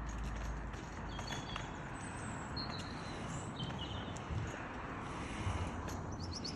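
Steady background rush with a few faint, high bird chirps, about a second and a half in and again around three to four seconds in.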